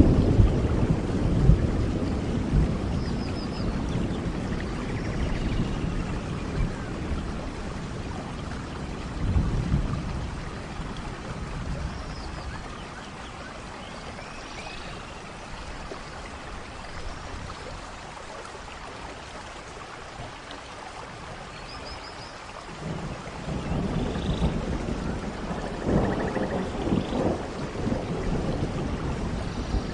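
Rainforest thunderstorm: steady rain with rolling thunder. A rumble dies away over the first few seconds, another comes about ten seconds in, and a fresh one builds from about twenty-three seconds on.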